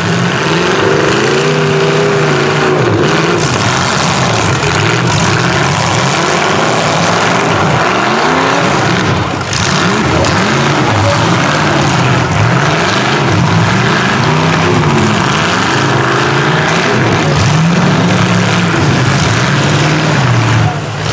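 Several truck, van and SUV engines revving up and down together during a demolition derby heat, with a couple of short bangs from cars hitting each other about 3 and 9 seconds in.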